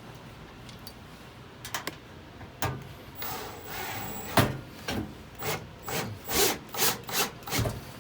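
Screws being driven by hand to fasten an RV furnace to its mounting. After a few clicks, the turns come as a run of short rasping strokes, about two to three a second.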